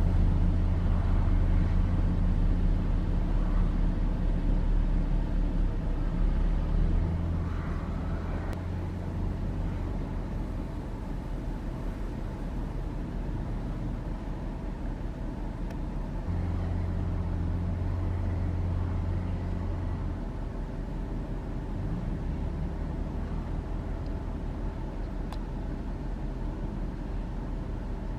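Heavy diesel construction machinery running, a steady low engine hum that is loudest for the first several seconds, eases off, then swells again a little past halfway through.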